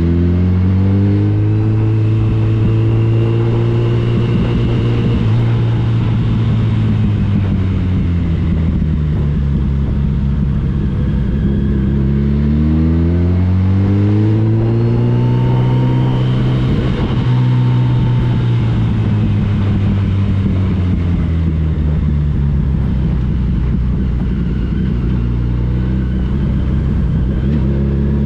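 Motorcycle engine under way, its pitch rising as it accelerates, falling away as it eases off, then rising again partway through and once more near the end, with a steady rush of wind and road noise.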